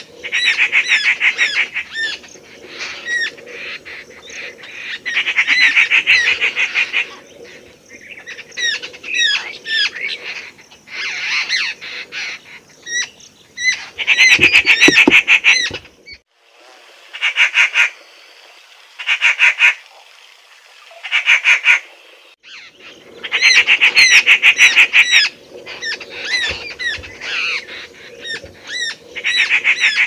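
Birds calling in loud bursts of rapid, harsh chattering notes, each burst lasting one to two seconds, with quieter scattered chirps between the bursts.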